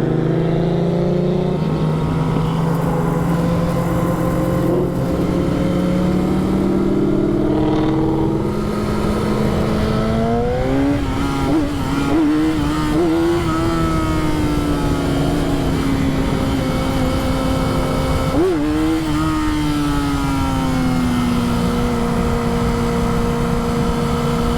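Vehicle engine running steadily, then revving up about ten seconds in with short wavering throttle blips and one sharp blip, before easing back down to a steady pitch near the end.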